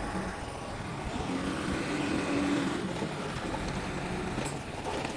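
Diesel engine of a Mitsubishi bulldozer running, its pitch and level rising a little about a second in and easing back after the middle.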